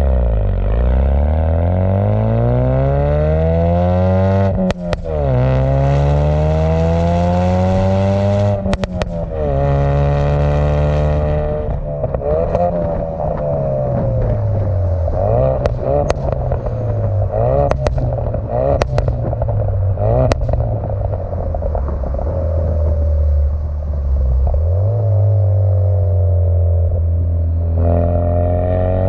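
Ford Focus RS turbocharged 2.3-litre four-cylinder through a Cobb cat-back exhaust, accelerating with the pitch climbing and dropping at each gear change, then easing off with several sharp cracks from the exhaust, and pulling again near the end.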